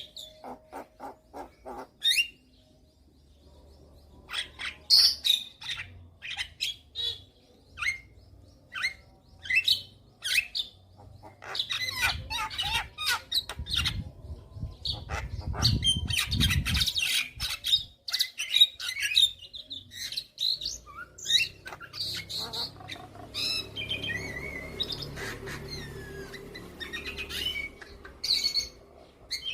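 Javan myna singing a rapid, varied string of short chirps, whistles and harsh squawks, its song packed with mimicked calls of other birds.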